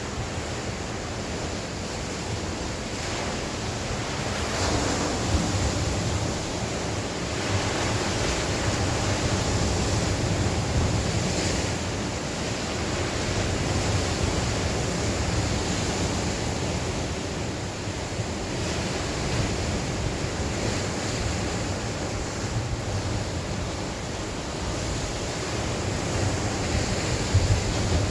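Sea waves breaking and washing on the shore, swelling and receding every few seconds, with wind and some wind buffeting on the microphone.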